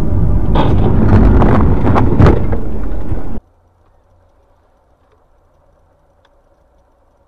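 Loud car noise with several sharp knocks, cutting off suddenly about three seconds in and leaving only a faint steady hum.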